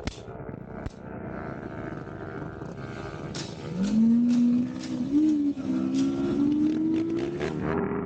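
Motorcycle engine running steadily, then accelerating hard about four seconds in, its pitch climbing, dipping briefly at a gear change and climbing again.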